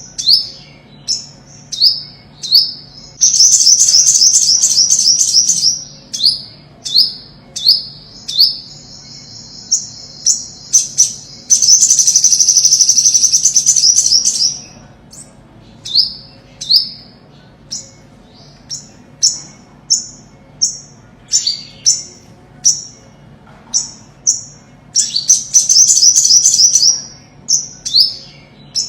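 Olive-backed (ornate) sunbird singing: high, thin chips, mostly falling in pitch, about one a second, broken by three fast trills of two to three seconds each, the longest near the middle.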